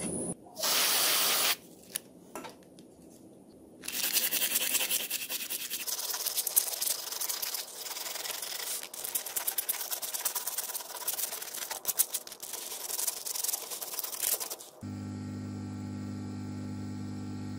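Rubbing and scraping on a small hard part, with many small clicks, after a short burst of hiss about a second in. A steady tone with several pitches sets in near the end.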